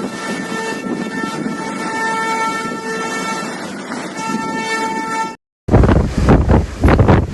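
A pitched horn tone sounding on and off, in held notes, over a steady rushing noise. About five and a half seconds in, a sudden cut leads to loud wind buffeting the microphone over waves crashing.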